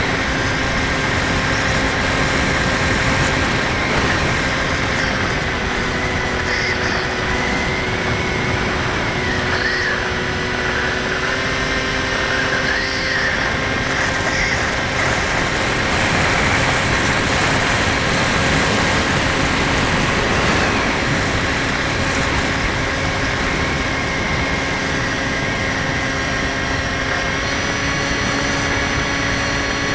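Electric motor and propeller of a Skywalker 1680 model plane running steadily in flight, a constant whine over a dense wind rush. The whine's pitch shifts slightly a few times as the throttle changes.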